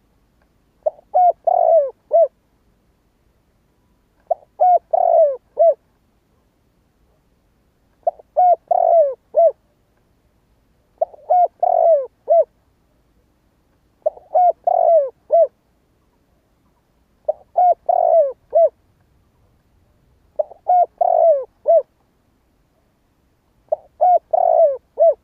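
Spotted dove cooing: a phrase of several short, falling coos, repeated eight times at about three-second intervals.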